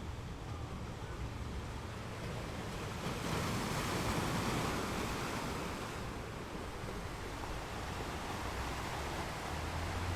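Sea waves on the shore: a wave breaks and washes in about three seconds in, swelling and then easing off over the next few seconds, over a constant low rumble of surf.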